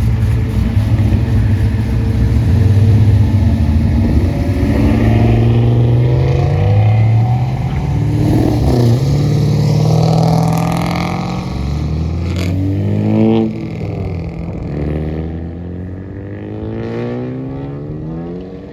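Car engine revving up and down several times, its pitch rising and falling. It drops in level about two-thirds of the way through and fades toward the end.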